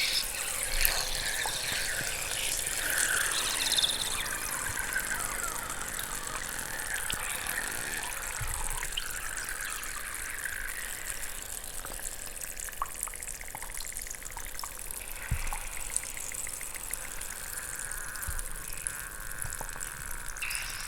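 Chalk balls dissolving in water, fizzing and crackling with a steady stream of tiny pops as air bubbles escape, with thin squeaky whistles now and then.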